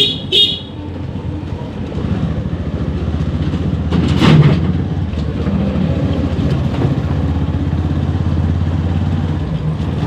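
Motorcycle engine running steadily under way, with two short horn beeps right at the start and a brief louder rushing surge about four seconds in.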